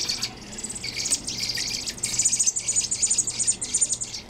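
Fledgling songbirds begging while being spoon-fed: rapid, high-pitched chirping in long runs, with a brief pause just after the start and dying away near the end.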